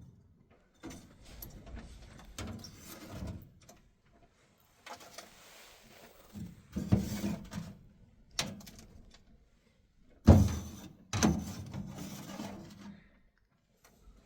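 Irregular knocks, thuds and scrapes of objects being handled in a small room, the loudest a sharp thump about ten seconds in, followed by another a second later.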